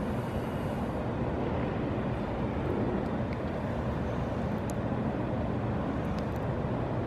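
Steady background traffic noise, a continuous low rumble of road vehicles with a few faint ticks.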